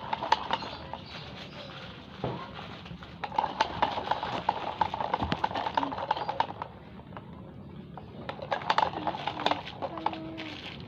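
Close-miked mukbang eating sounds: chewing with quick runs of wet mouth clicks, busiest from about three seconds in and again in a shorter run near the end.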